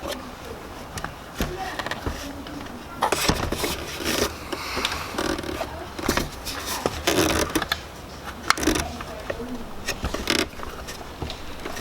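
A rubber headlight dust boot being worked back onto the back of a motorcycle headlight housing by hand: irregular scraping, rubbing and clicking of rubber and plastic, busiest in the middle.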